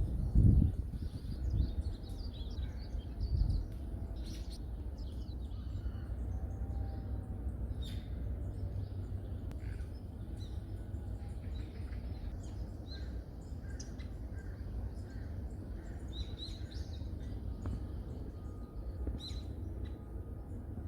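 Forest birds chirping and calling: many short, high chirps scattered throughout, over a steady low rumble. There are a few low thumps in the first few seconds.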